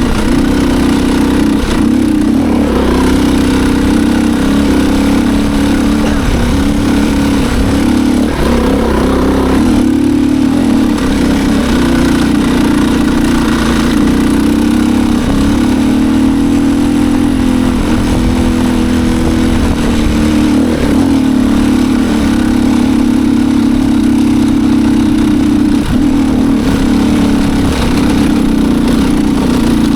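Motorcycle engine running continuously under load on a steep off-road climb, its pitch wavering slightly up and down with the throttle.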